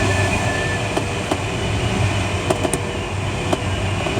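Wind rushing over a Schleicher ASK21 glider's cockpit and canopy in flight: a steady rushing rumble with a faint steady whine, and a handful of sharp clicks from the cockpit.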